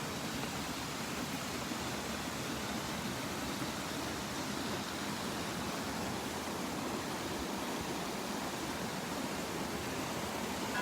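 Steady rush of flowing spring water.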